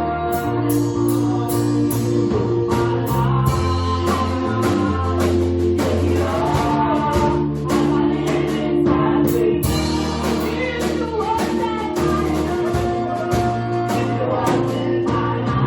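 Gospel music with singing over a band: sustained bass notes, steady drum beats and guitar.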